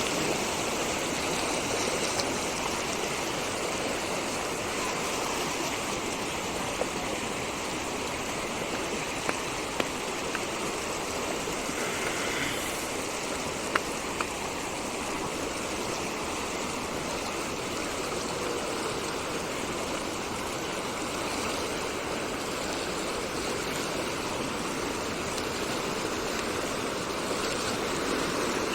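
Water rushing steadily down a stream swollen by heavy rain, with a few brief ticks in the middle.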